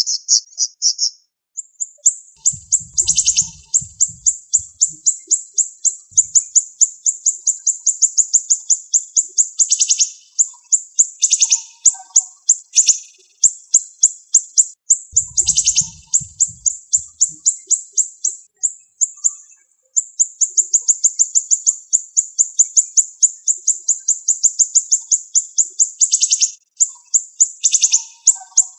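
Siri-siri songbird singing fast, dense trains of high, sharp chirps, many notes a second, in runs of several seconds broken by short pauses, with a few louder notes standing out.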